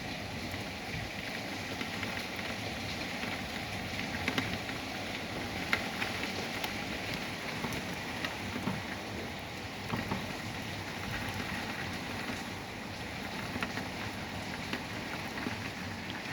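Steady rain from a severe thunderstorm falling and hitting surfaces, with a few sharper taps scattered through it.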